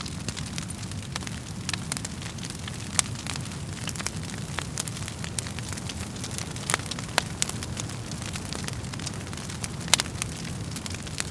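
Wood fire burning in a fireplace, crackling: irregular sharp pops and snaps over a steady low rumble of the flames, with the loudest pops about three seconds in and near the end.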